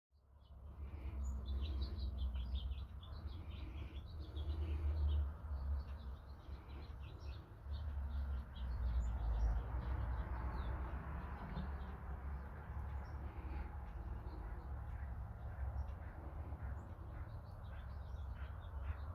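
Small birds chirping: many short, high calls over a loud low rumble.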